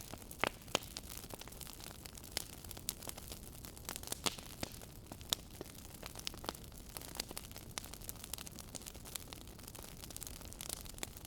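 Fireplace fire crackling: frequent sharp, irregular pops and snaps over a steady soft hiss.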